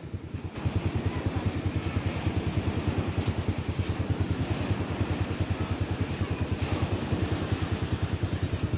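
An engine running with a fast, steady pulsing beat that gets louder about half a second in, over a steady high hiss.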